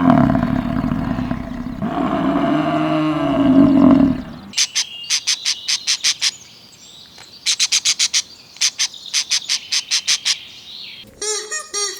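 An animal's drawn-out call with a wavering pitch for about the first four seconds, then groups of rapid, high, sharp chirps, each group lasting about a second, repeated several times.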